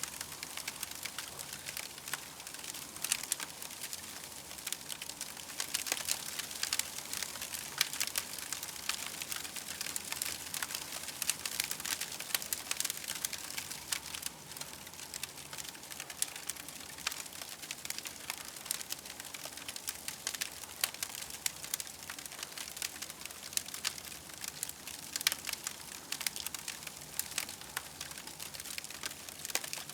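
Campfire crackling steadily, many small sharp pops and snaps over a soft hiss.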